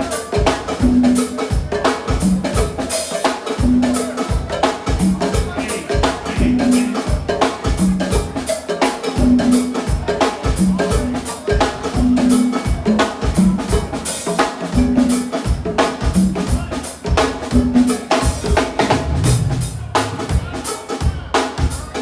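Live band playing an instrumental drum-driven groove: kick, snare and rimshot hits on a steady beat over a bass line that repeats the same two low notes.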